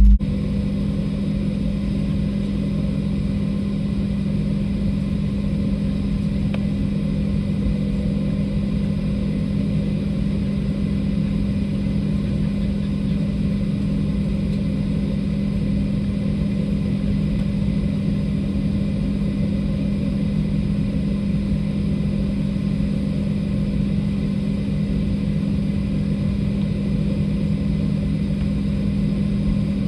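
Steady drone of an airliner's jet engines and air system heard from inside the passenger cabin, an even low hum under a hiss that does not change.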